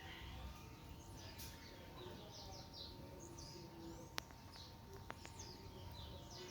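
Small wild birds chirping faintly, a string of short high chirps throughout, with one sharp click about four seconds in.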